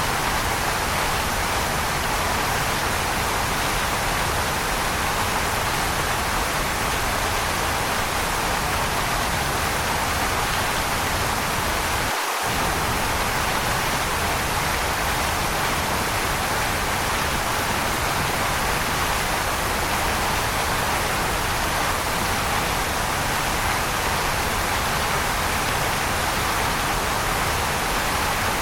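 Waterfall rushing: a steady, even hiss of falling water. The low rumble drops out for a moment about twelve seconds in.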